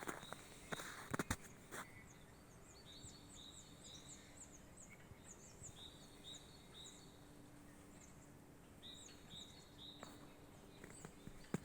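Faint bird calls: many short, high chirps and quick falling whistles repeated over several seconds. A few footsteps sound in the first couple of seconds and again near the end.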